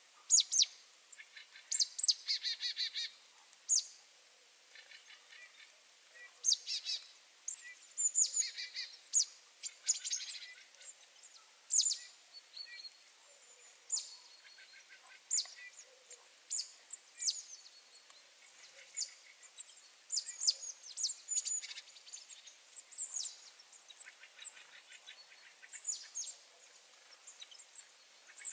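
Small birds chirping and calling: a run of short, sharp, high chirps that drop in pitch, with quick trills now and then, from several birds.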